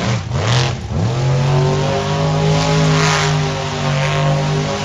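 Car engine at high revs, with two quick dips and recoveries in pitch in the first second, then held at a steady high note.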